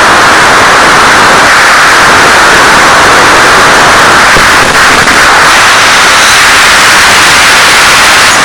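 Loud, steady static hiss from the audio channel of a 1.3 GHz analog FPV video receiver, brightest in the upper-middle range.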